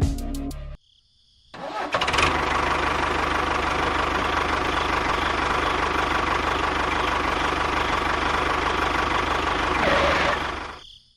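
An engine starts abruptly after a short silence and runs steadily for about nine seconds, then winds down in pitch and stops near the end.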